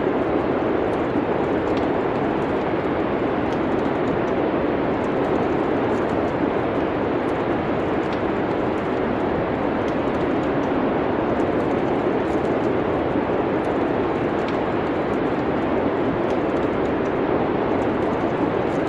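Steady wind noise of a snowstorm, with faint, scattered crackles of a wood fire in a fireplace.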